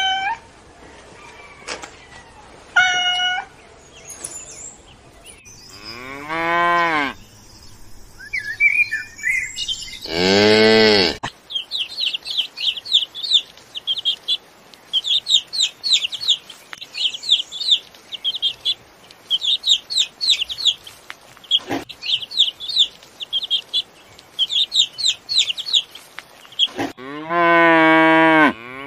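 A kitten meows in short high calls, followed by two longer, lower drawn-out calls. A chick then cheeps rapidly and without pause for about fifteen seconds, and near the end a cow gives a long, loud moo.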